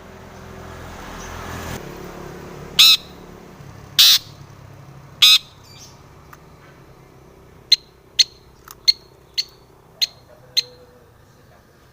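Long-tailed shrike calling. First come three loud, harsh, rasping calls about a second apart, then a run of short, sharp chips about twice a second.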